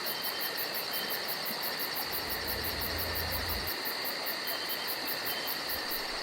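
Insect chorus of crickets: a steady high trilling with a fast, even pulsing at about four to five beats a second, plus a brief low rumble near the middle.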